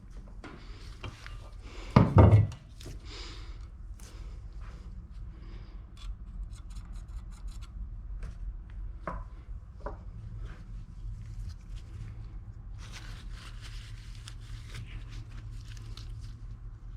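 Workshop handling noises: scattered clicks and taps of parts and tools, with one loud low thump about two seconds in and a stretch of rubbing or scraping later on, over a faint steady hum.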